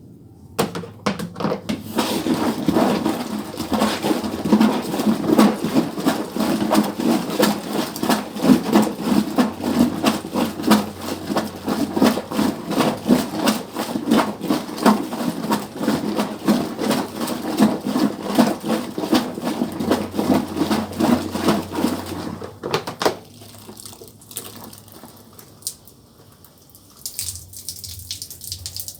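Hand-operated manual washing machine being worked, its water and laundry sloshing in a fast, steady rhythm; the agitation stops about 23 seconds in, leaving a faint low hum.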